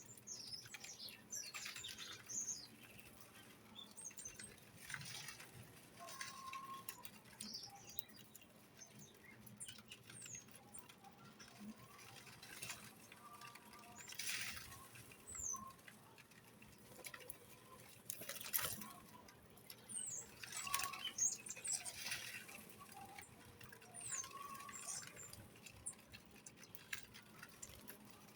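Small birds chirping: scattered short, high peeps and slurred notes, with brief rustling and fluttering bursts now and then.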